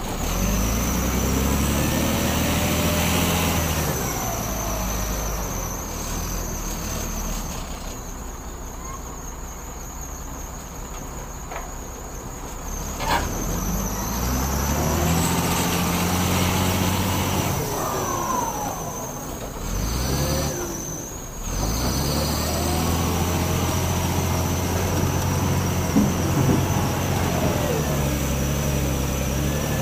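Heavy diesel vehicles running, the engine noise swelling and fading three times as they come and go, over a steady high-pitched tone.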